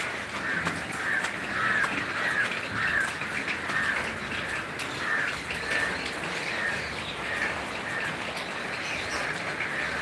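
A bird calling over and over in short, arched notes, about two a second, above a steady hiss.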